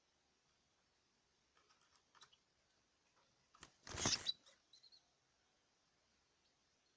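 Small caged birds: a few faint, short, high chirps and light clicks, with one brief loud rustle about four seconds in.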